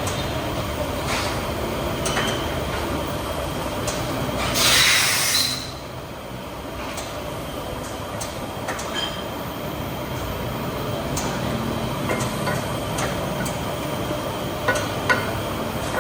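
Repair-shop noise: a steady background rumble with scattered short metallic clinks, and a loud hiss lasting about a second about five seconds in.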